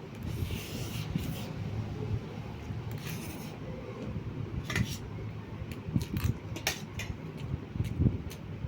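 Close-up eating sounds: chewing, with a few short sharp clicks of utensils on a dish in the second half, over a steady fan-like hum.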